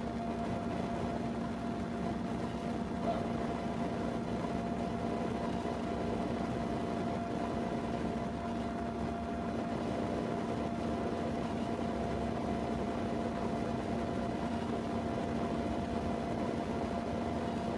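Steady hum and hiss inside a running vehicle, with a constant low drone that holds the same pitch throughout.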